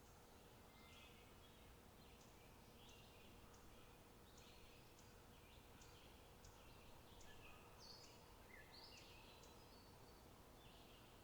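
Faint birdsong: small birds give many short, high chirps and twitters, several a second, over a quiet, steady open-air background.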